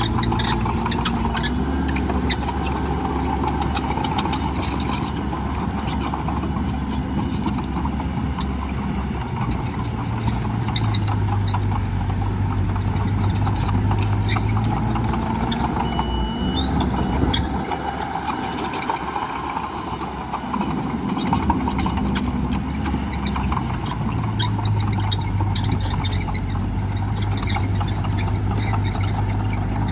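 Diesel engines of heavy earthmoving machines (dump trucks and a bulldozer) running under load, their pitch rising and falling several times as they work.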